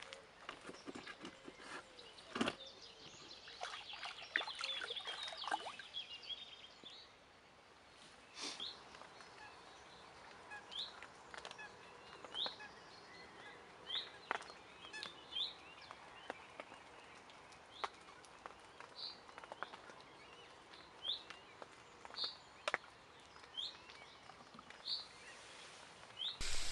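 Birds calling: a few seconds of busy twittering, then one short, high chirp repeated about every second and a half, with a few sharp clicks in between.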